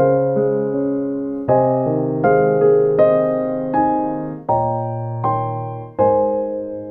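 Background music: a piano playing a slow sequence of chords, each struck and left to fade before the next.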